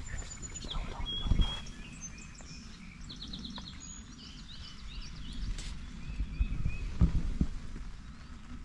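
Small birds chirping, with a quick high trill a few seconds in, over a steady low patter of rain on the ground blind. Two loud low thumps, about a second in and again near the end, stand out.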